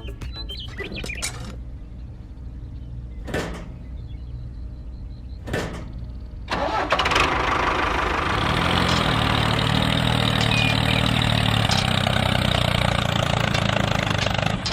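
An engine starting: a low rumble with two short clicks, then about six and a half seconds in it catches and runs steadily and louder.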